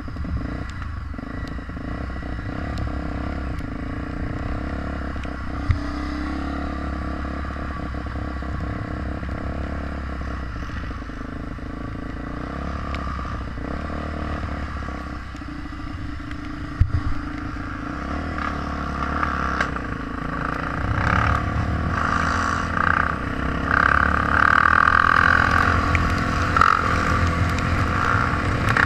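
Dirt bike engine running during a trail ride, with clattering and scraping, getting louder over the last third.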